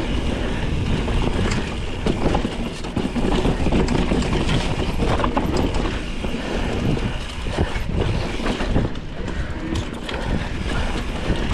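Mountain bike rolling over a rough dirt trail: steady tyre noise with frequent rattles and knocks from the bike.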